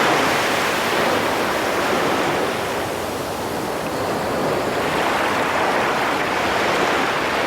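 Sea waves washing onto a beach: a steady rushing hiss that eases a little around the middle and swells again.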